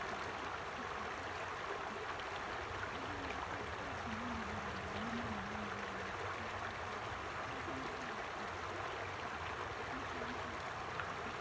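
Stream water flowing steadily over rocks, an even babbling rush.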